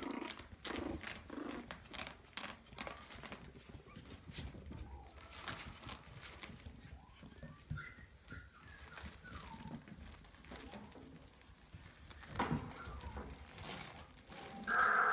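Maltese puppies making small whimpering squeaks, with rustling and scratching as they move about, and a louder yelp near the end.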